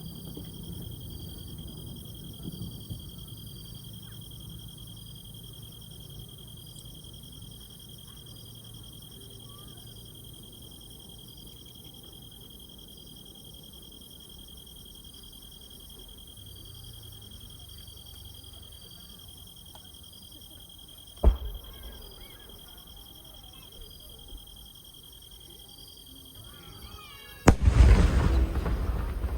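Insects chirping steadily in the background, with a single sharp firework bang about two-thirds of the way through. Near the end a firework shell whistles upward and then bursts loudly, its crackle trailing on.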